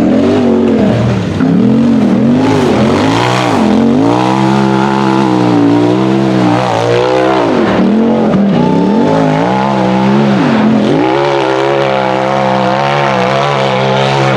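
UTV hill-climb buggy engine revving hard: a run of quick throttle blips, then climbing to high revs and holding. Twice the revs drop sharply and climb back to a high held pitch.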